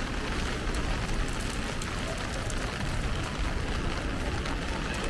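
Rain falling on an umbrella, many small scattered taps over a steady wash of rain and wet-street traffic noise.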